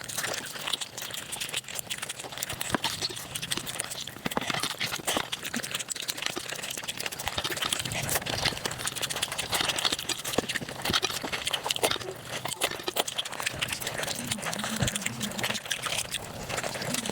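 Close-miked mukbang eating sounds played back sped up: a dense, rapid run of chewing, smacking and crunching clicks.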